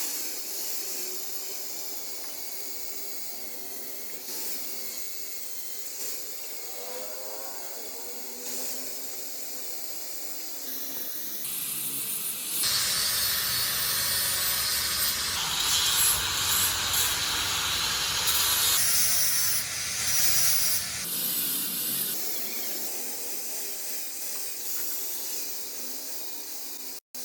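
Workshop tool noise, a rasping sawing or rubbing sound, that gets louder and fuller from about twelve to twenty-one seconds in.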